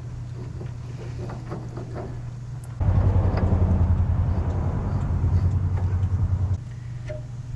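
Baldwin 4-6-0 narrow-gauge steam locomotive: a steady low hum, then, about three seconds in, a loud rushing burst with a fast low pulsing that lasts about four seconds and stops abruptly.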